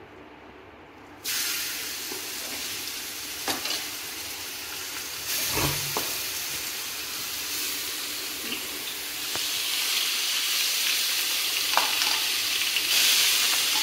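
Grated bottle gourd (lauki) going into hot desi ghee in a pan: a sudden sizzle starts about a second in and carries on steadily as it fries, growing a little stronger near the end, with a few light knocks of the stirring spoon against the pan.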